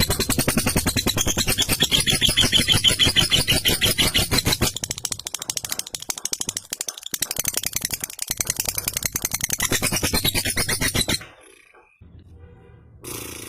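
Lovebird giving its long 'ngekek' chatter: a loud, very fast rattling string of notes that keeps going for about eleven seconds, then breaks off suddenly, leaving only faint sound near the end.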